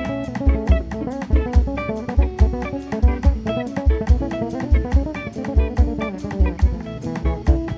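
Instrumental jazz quartet playing live: a drum kit keeps a steady beat with bass drum and cymbals under electric guitar and double bass, with a melody line on top.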